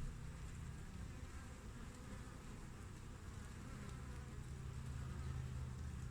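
Honeybees buzzing at a hive entrance: a steady, low hum of many bees coming and going, growing a little louder in the second half.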